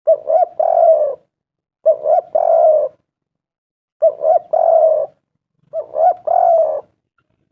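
Spotted dove cooing its three-note call, two short coos then a longer one, repeated four times about two seconds apart.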